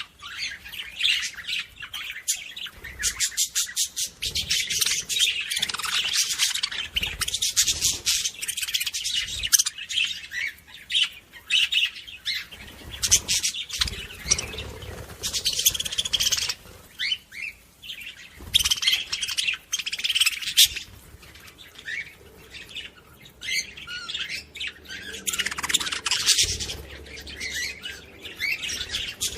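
Budgerigars chattering and warbling: a busy, unbroken stream of quick chirps, squeaks and rapid clicking notes.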